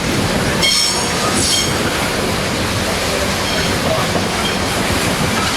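A train running past on the track, with a steady rolling rumble and two short high squeals from the wheels less than a second apart near the start.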